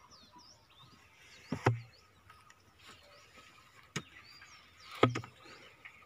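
Small birds chirping in short, quick calls, with two sharp thumps, one about a second and a half in and one about five seconds in, and a lighter knock in between.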